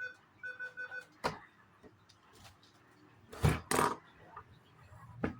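Plastic Lego pieces knocking and clattering as the toy set is handled: a sharp knock, then two loud clacks together about three and a half seconds in, and another knock near the end. A short steady whistle-like tone is heard at the very start.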